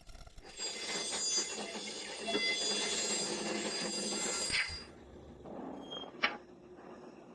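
A small mechanism runs for about four seconds, a noisy rattle with several high steady tones over it, then stops suddenly. A sharp click comes near the end.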